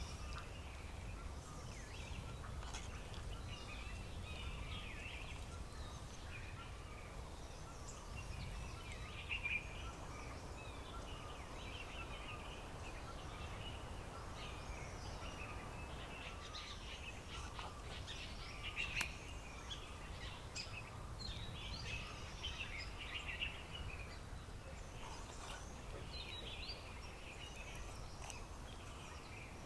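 Several wild birds chirping and calling in short, repeated notes, over a steady low rumble, with one sharp click about two-thirds through.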